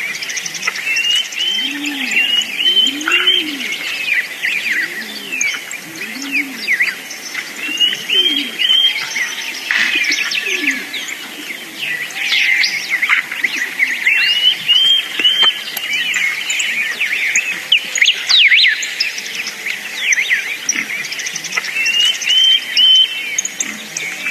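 Several birds chirping and calling over one another, with many quick sweeping chirps and a short phrase of rising notes repeated every few seconds. Lower, slower arched calls come in and out through the first half.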